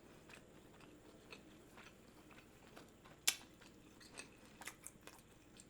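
A person chewing a bite of gyoza with the mouth close to the microphone: faint, scattered wet clicks, with one sharper click a little past halfway.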